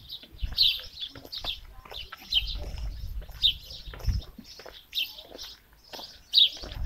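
Small birds chirping, short high calls repeated every half second or so, over a low rumble that comes and goes.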